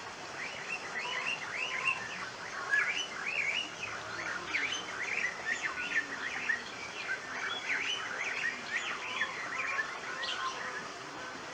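Many birds chirping together, a dense run of short, quick chirps that fade out near the end.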